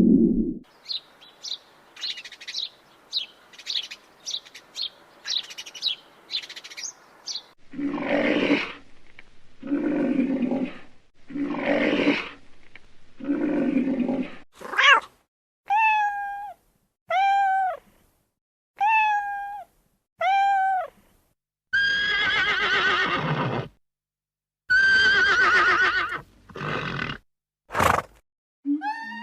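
A run of different animal calls. First comes a string of short high chirps, then four long, lower calls about two seconds apart, then five short pitched calls that each rise and fall, and a few longer calls near the end.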